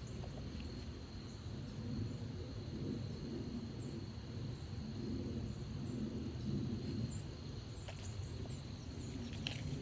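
Morning woodland ambience: a steady high-pitched insect trill, with a few short high bird chirps scattered through, over a steady low rumble.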